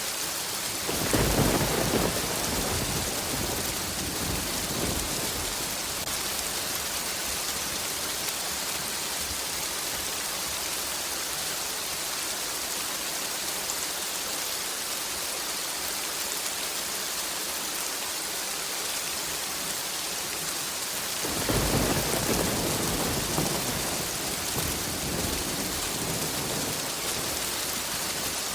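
Steady heavy rain hissing, with two rolls of distant thunder rumbling up over it, one about a second in and a longer one near the end.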